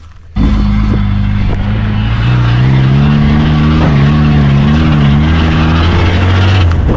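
Classic car's engine running loud under load, its pitch wavering up and down. It cuts in suddenly about half a second in.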